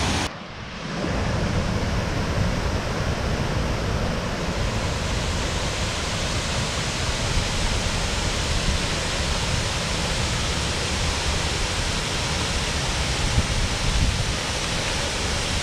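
Waterfall rushing steadily: a dense, unbroken noise of falling water, with a brief dip in level just after the start.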